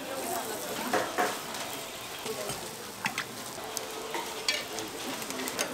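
Hotteok frying in oil on a flat griddle: a steady sizzle, broken by a few short sharp taps and scrapes of the cook's spatula on the griddle.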